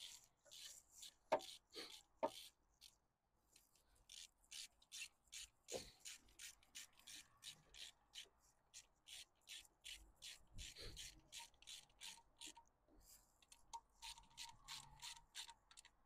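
Repeated hand rubbing or scrubbing strokes, about two to three a second, with a few light knocks in the first few seconds.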